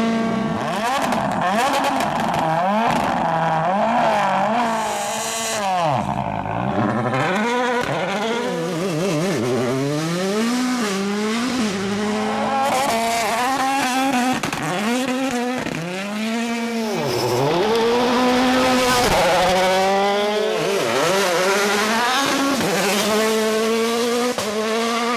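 A 2017–2021 World Rally Car's 1.6-litre turbocharged four-cylinder engine driven hard: its note climbs and drops over and over as it shifts up, lifts off and accelerates again, with sharp cracks among the revs in the first few seconds.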